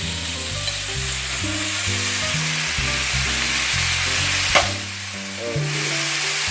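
Chicken pieces sizzling in hot oil in a frying pan, a steady hiss, with one sharp knock about four and a half seconds in.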